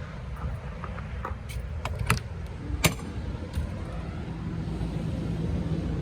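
A few sharp clicks and knocks from a motorhome's entry door being opened and climbed through, over a low outdoor rumble. The loudest knock comes about three seconds in. A steady low hum sets in about halfway through.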